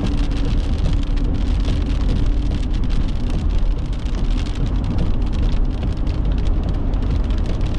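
Heavy rain hitting a car in many small ticks, over the steady low rumble of the vehicle.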